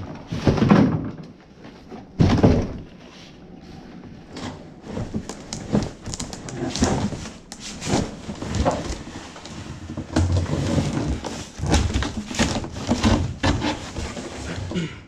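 Cardboard box and packing being handled while a mini-split indoor unit is unpacked: rustling and scraping with irregular knocks and thumps, the loudest thump about two seconds in.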